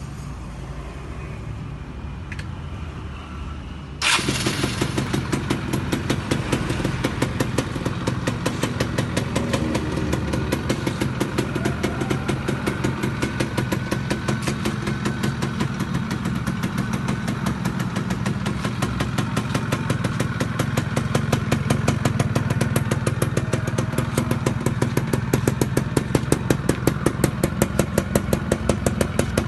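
Yamaha F1ZR's two-stroke single-cylinder engine starting abruptly about four seconds in, then idling steadily with a rapid, even beat.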